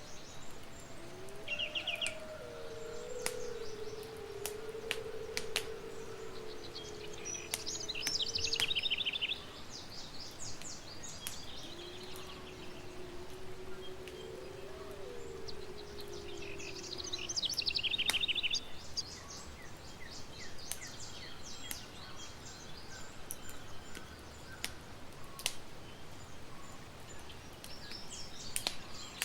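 Campfire crackling with scattered sharp pops, while songbirds sing quick trills several times. A faint low wavering tone comes twice.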